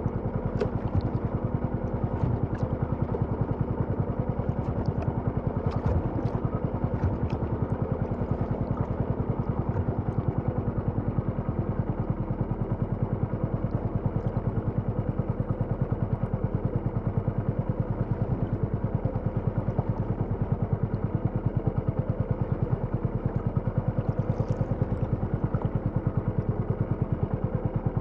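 Small boat engine running steadily at a constant speed, a fast, even putter.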